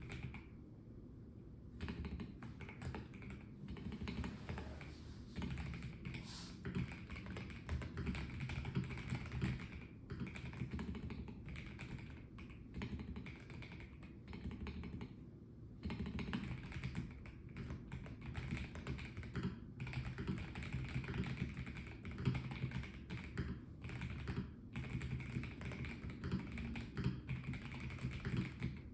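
Typing on a Melgeek Mojo84 plastic-case mechanical keyboard: rapid, continuous key clicks that start about two seconds in and stop briefly about halfway through.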